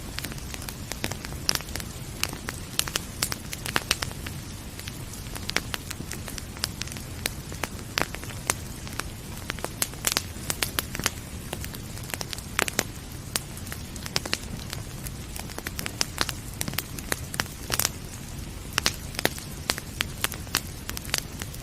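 Wood fire crackling, with frequent irregular sharp pops and snaps over a steady low rumble and a soft rain hiss.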